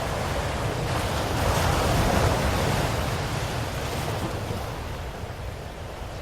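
Ocean waves breaking and washing on a shore: one wave swells to a peak about two seconds in and slowly recedes.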